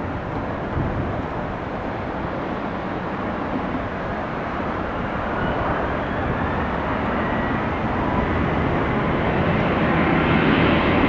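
Boeing 737 MAX 8 airliner with CFM LEAP-1B turbofans arriving, its jet noise growing steadily louder as it approaches, with a faint high engine whine.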